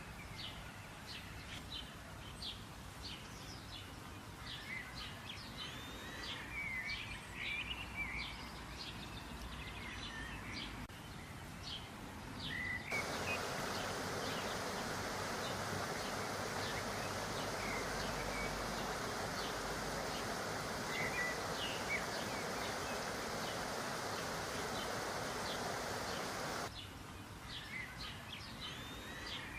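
Small birds chirping and whistling in a busy chorus. Partway through, a steady rushing hiss cuts in suddenly and drowns most of the birdsong, then stops just as suddenly near the end, and the chirping returns.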